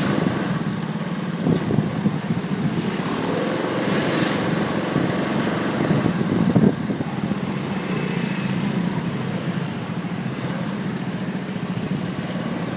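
Motorcycle riding through street traffic, heard from a phone mounted on the bike: its engine running steadily under road and wind noise, with brief knocks about one and a half and six and a half seconds in.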